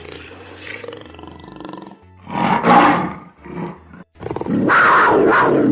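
Tiger roaring: a loud roar about two seconds in, a short weaker one after it, then a longer loud roar near the end.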